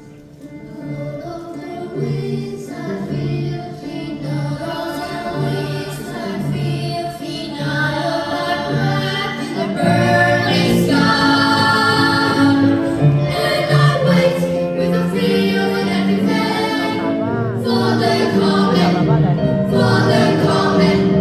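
Small group of children from a children's choir singing with an accompaniment of repeated low notes, starting soft and building louder and fuller from about halfway through.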